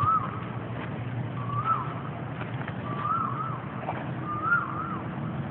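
A bird calling a short whistled phrase, a level note followed by a quick rise and fall, repeated about every second and a half.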